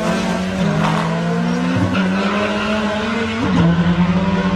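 A drag car's engine running at full throttle as it accelerates down the strip, its note dropping at gear changes about half a second and three and a half seconds in.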